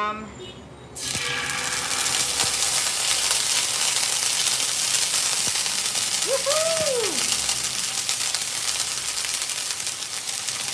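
A spoonful of paste dropped into hot oil in a frying pan starts sizzling suddenly about a second in, then sizzles and spatters steadily: the aderezo base beginning to fry. A short tone rises and falls about six seconds in.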